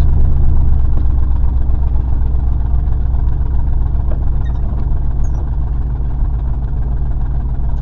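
Old pickup truck's engine running while driving, heard from inside the cab as a steady low rumble. The engine misfires, with one cylinder not firing under way, which the owner says gives it a little cutout instead of running smoothly.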